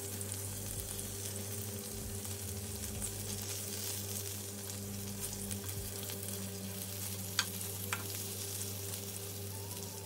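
Minced-beef kebabs on skewers, with a tomato and a green chili, sizzling steadily in a hot pan on low heat, with fine crackling. A steady low hum runs underneath, and two sharp clicks about half a second apart come a little past the middle.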